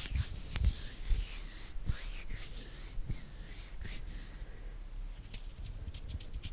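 Hands rubbing together close to the microphone in a series of swishing, hissing strokes with soft low thumps of palm contact. From about five seconds in, these give way to quick, light, evenly spaced finger taps.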